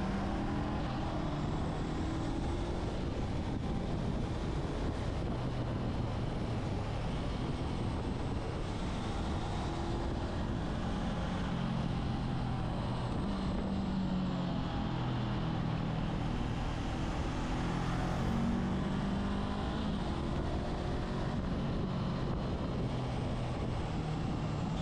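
Motorcycle engine running under way, its pitch slowly rising and falling as speed changes, over a steady rush of wind and road noise.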